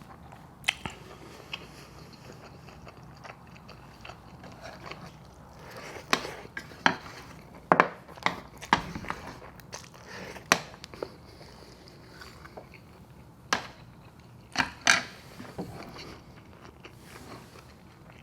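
Close-miked eating of Chapagetti noodles and gyoza dumplings: chewing broken by sharp, short mouth smacks and clicks, bunched in the middle and again a few seconds later.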